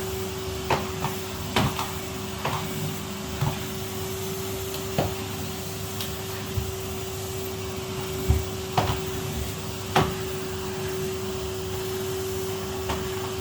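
Vacuum cleaner running on carpet with a steady hum, broken by several short knocks.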